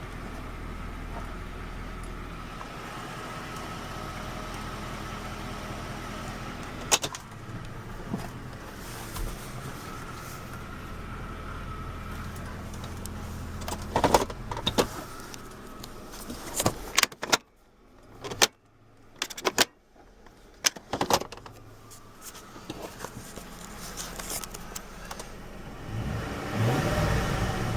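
Ford F-150's 5.4 L three-valve V8 idling steadily. A few sharp clicks come, then about two-thirds of the way through a cluster of clicks and knocks with two brief near-silent gaps, and the sound swells near the end.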